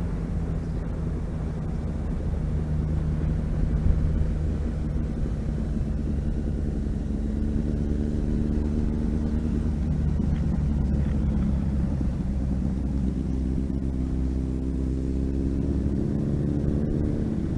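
Motorcycle engine running steadily on the road under a low rumble, its pitch rising slightly in the last few seconds as it speeds up.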